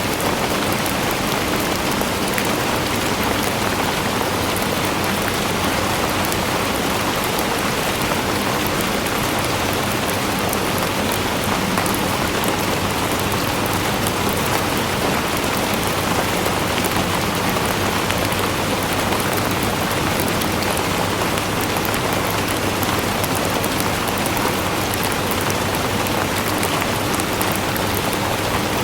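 Steady rainfall, a dense even hiss of drops with fine pattering crackle, unchanging throughout.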